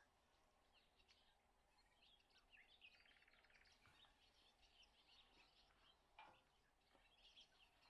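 Near silence, with faint bird chirps scattered throughout and a faint click a little after six seconds.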